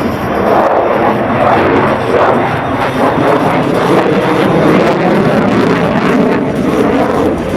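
Loud, steady jet noise from an F-22 Raptor in flight, its two Pratt & Whitney F119 turbofans heard as a dense rushing roar.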